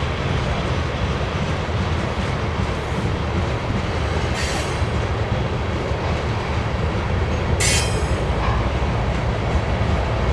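Rear diesel locomotives of a BNSF freight train rumbling past with steady wheel and rail noise, and two brief high wheel squeals, one about four and a half seconds in and one near eight seconds. The deep engine rumble is what the watcher takes as the sign that the rear units are working under power, helping push the train.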